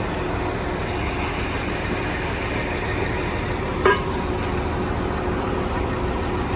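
Diesel engine running steadily at a low idle, with a brief high-pitched chirp about four seconds in.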